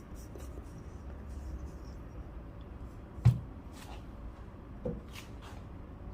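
Quiet handling of a hand coffee grinder and its dosing parts: light rubbing and a few faint clicks, with one sharp knock about three seconds in.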